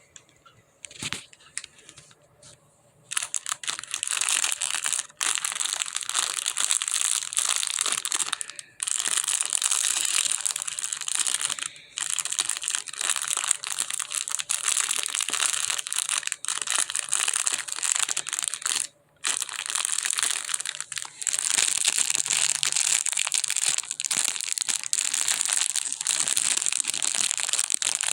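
Packaging crinkling and crackling as a toy is worked out of it by hand. Starts about three seconds in and keeps on with a few brief pauses.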